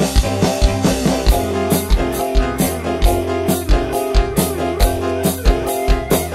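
Live campursari band playing an instrumental passage in dangdut koplo style through a PA sound system: held melodic notes over a steady beat of deep drum hits about twice a second.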